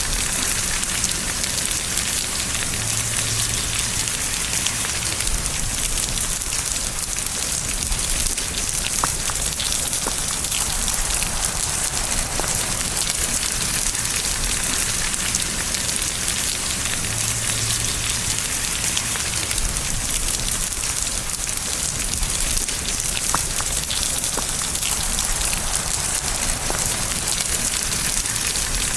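Steady rain falling, a dense even hiss of drops with fine pattering, constant throughout.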